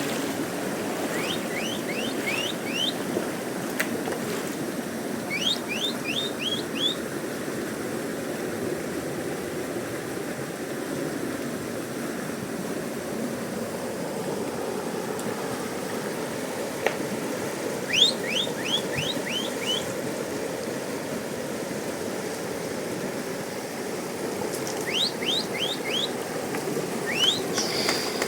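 Fast mountain river rushing steadily. A bird sings over it several times, each phrase a quick run of four to six short chirps.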